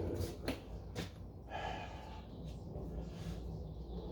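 Faint breathing, with two light clicks in the first second over a low background rumble.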